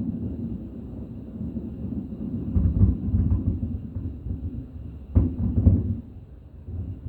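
Fireworks exploding over a continuous low rumble: a cluster of booms about two and a half seconds in, then two sharp bangs about half a second apart just after five seconds in.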